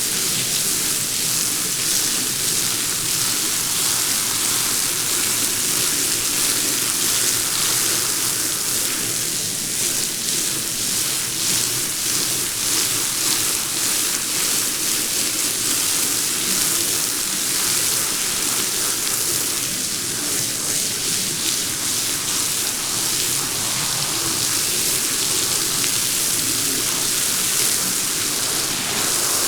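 Water spraying steadily onto a wet rug during rinsing, a continuous rushing hiss.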